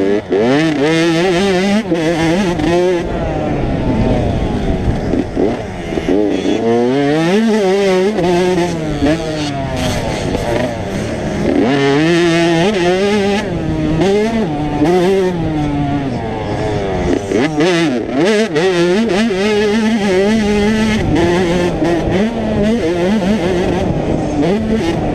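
85cc two-stroke motocross bikes riding a track, their engines revving up and down over and over as the riders open and close the throttle and shift, at times more than one bike heard at once.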